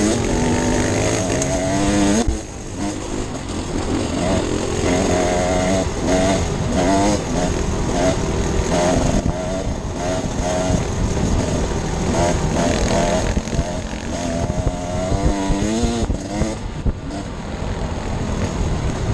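Enduro dirt bike engine being ridden off-road, its pitch rising and falling constantly with the throttle, with a short drop in revs about two seconds in.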